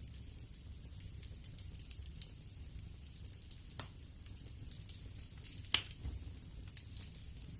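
Wood fire burning in a fireplace: a soft steady rumble of flames with frequent small crackles and two sharper pops, about four and six seconds in.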